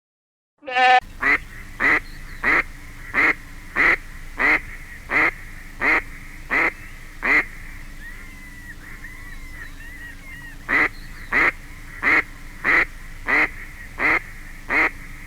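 A bird giving a steady series of short, evenly spaced calls, about three every two seconds, breaking off for a few seconds in the middle before starting again, with faint chirps from other birds during the pause.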